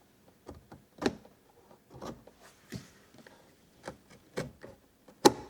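Scattered light knocks, clicks and scrapes of hand-tool work as a fitted piece is trimmed, with one sharp, louder knock near the end.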